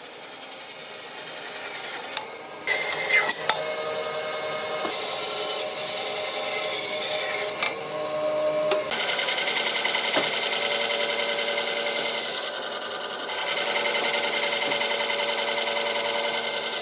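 A power tool abrading wood, sanding or grinding, with a steady motor tone under a rasping hiss; the hiss breaks off briefly twice, about two seconds in and again around eight seconds in.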